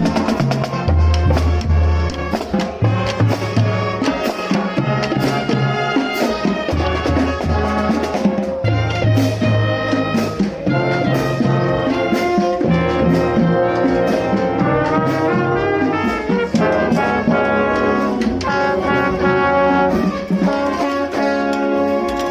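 Brass band music with trumpets and trombones over a steady drum beat and a moving bass line.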